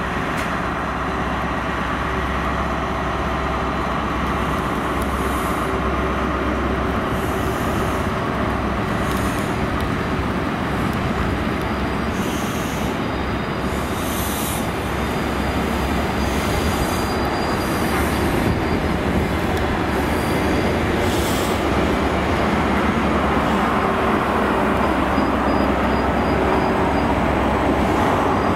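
Network Rail's yellow New Measurement Train, a High Speed Train with Class 43 diesel power cars, running past slowly: a steady diesel engine hum under the rumble of the coaches' wheels on the rails, growing a little louder near the end.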